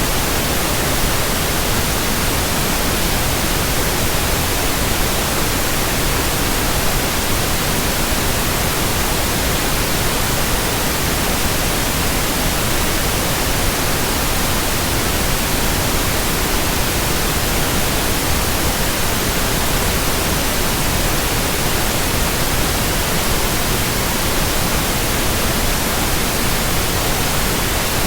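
Continuous white noise: a loud, even hiss spread from deep to very high pitches, with no rhythm, swish or change.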